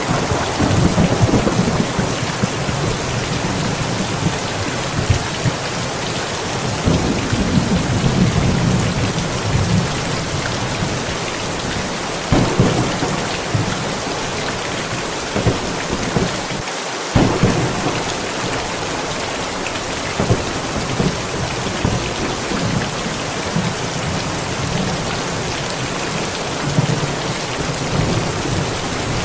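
Steady heavy rain hissing down during a thunderstorm, with low rolling thunder rumbles and a couple of sharper thunder cracks about halfway through.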